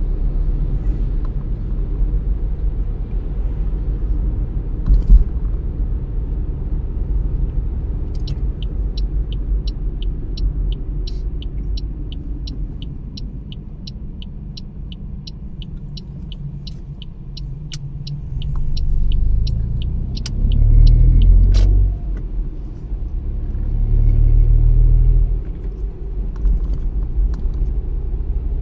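Car cabin noise while driving: a steady low rumble of engine and tyres, with a single knock about five seconds in. From about a third of the way in, a steady ticking at a little over two a second runs for about ten seconds while the rumble eases, as when the car slows. The rumble then swells louder twice as the car picks up speed.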